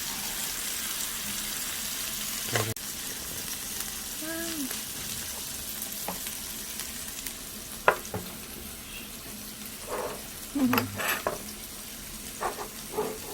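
Thin-sliced beef brisket sizzling on an electric multi-cooker grill, a steady frying hiss, with a few sharp clicks.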